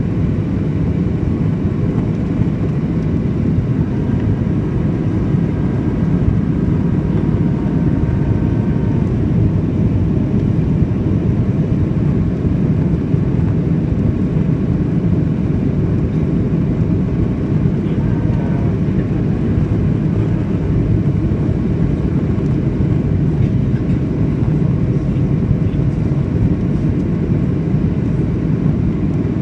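Steady cabin noise inside a Boeing 737-800 airliner in flight: a constant low rumble of the engines and rushing air, with a faint steady whine above it.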